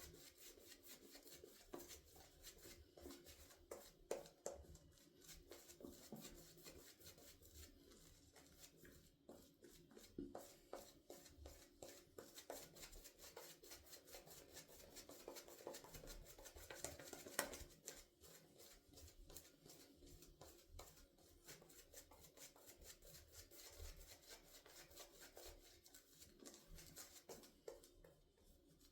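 Faint scraping of a Blackland Vector stainless-steel safety razor with a Feather Pro Guard blade cutting stubble through lather, in many short strokes, with one louder stroke a little past halfway.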